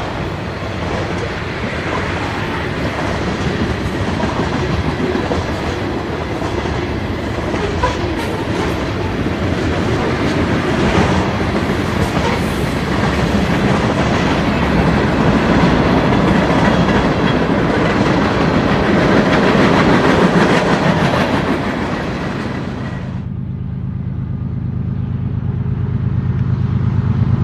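Freight train cars, tank cars and boxcars, rolling past on the rails: a steady wash of wheel-on-rail noise with scattered clicks. About 23 seconds in it cuts to the low, steady drone of approaching BNSF GE diesel locomotives, growing louder near the end.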